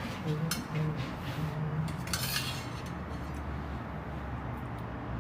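Cutlery clinking and scraping against a plate of rice and curry while eating: a few separate light clinks, with a longer scrape about two seconds in.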